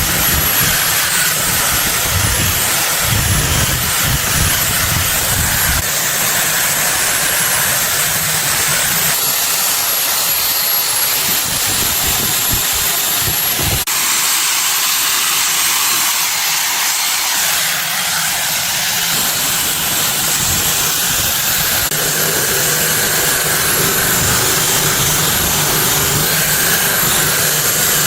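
Loud, steady hissing rush with a faint high whistle riding on it, unbroken throughout.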